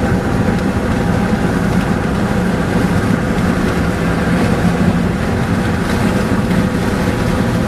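Steady engine and road noise from inside a moving vehicle, with a constant low hum.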